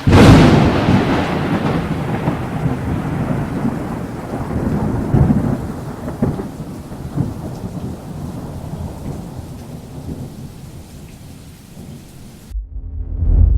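A thunderclap breaking into a long rolling rumble over rain, fading slowly and cutting off suddenly near the end. Low synth music starts just after it.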